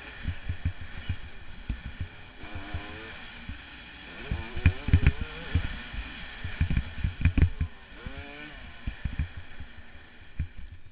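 Yamaha YZ250 two-stroke motocross bike ridden hard, its engine revving up and falling back again and again, with heavy low thumps about five and seven seconds in.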